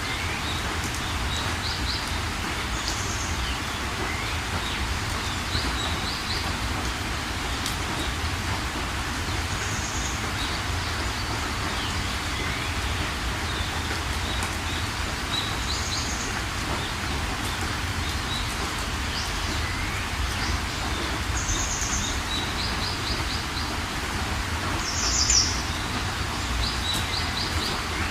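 Steady rain falling, with birds chirping over it: short high trills and calls every few seconds, one call louder about three-quarters of the way through.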